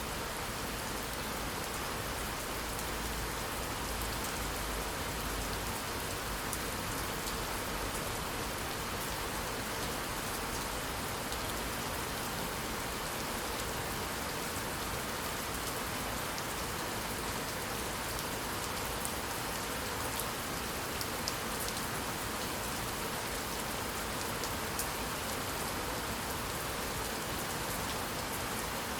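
Steady, even rainfall with scattered drop ticks. A low rumble underneath fades out about six seconds in.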